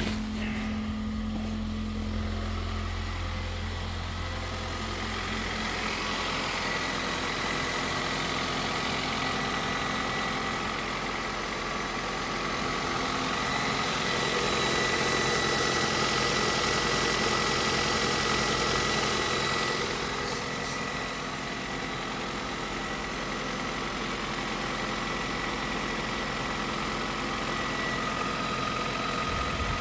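Kia Niro 1.6 hybrid's G4LE four-cylinder petrol engine idling steadily and evenly, with no sign of a fault. It gets somewhat louder for several seconds around the middle.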